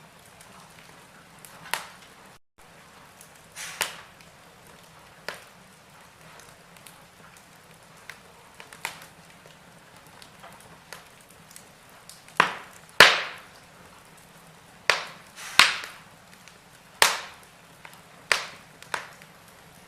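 Wood fire in a fireplace crackling: irregular sharp pops and snaps over a faint steady hiss, coming more often and louder in the second half, the loudest about thirteen seconds in.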